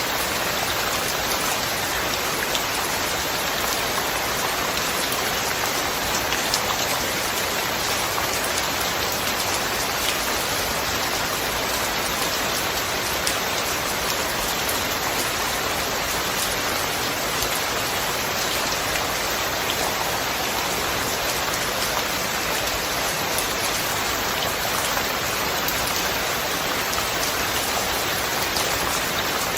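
Steady rain falling: an even, unbroken hiss with scattered ticks of single drops landing on a surface.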